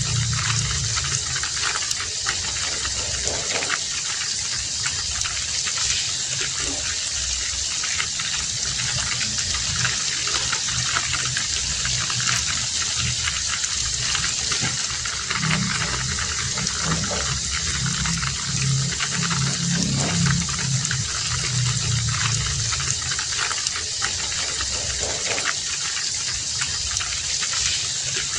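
Heavy rain falling steadily, a dense even hiss with scattered drips and patters. A low rumble swells for a few seconds about halfway through.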